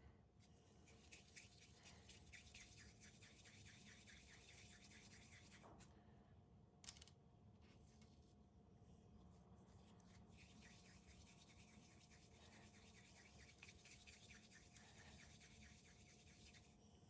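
Faint rhythmic scraping or rubbing strokes, about four a second, pausing for a couple of seconds midway with a single click before starting again.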